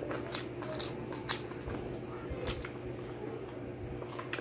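Close-up eating sounds of a person chewing crispy pata (deep-fried pork leg): scattered crackles and wet mouth clicks, with a sharper crunch about a second in and another near the end.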